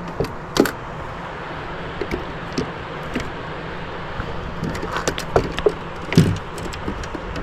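Steady rushing noise with scattered light clicks and knocks, and a louder knock about six seconds in: the sounds of fishing gear being handled in a small boat while jigging.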